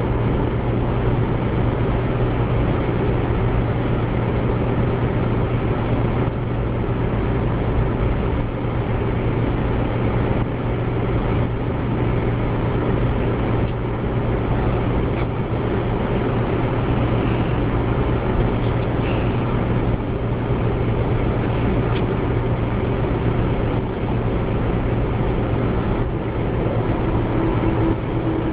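Steady road and engine noise inside a moving car's cabin, a low, even rumble that doesn't change.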